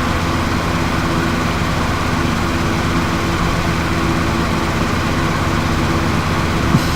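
Lawnmower engine running steadily, heard through an open window as an even drone.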